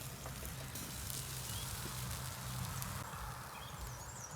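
Outdoor ambience: a steady low hum under a light hiss, with a few faint, high bird chirps near the end.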